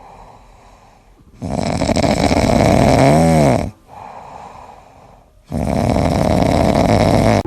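A pet snoring loudly: two long, rasping snores about two seconds each, with quieter breaths between them.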